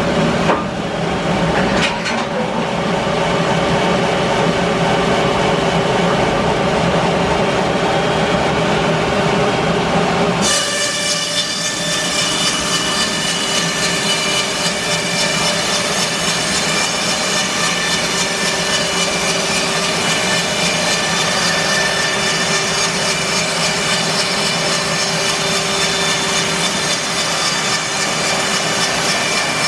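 Band sawmill running steadily through English larch. About ten seconds in the sound changes abruptly, losing its low hum and gaining a bright, hissy whine.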